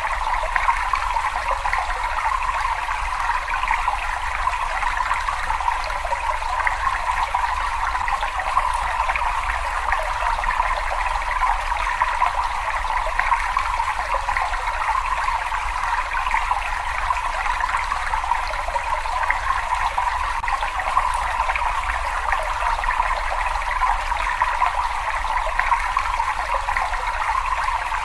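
Water trickling and flowing steadily in a cave, a continuous splashing rush with a fainter low rumble beneath it.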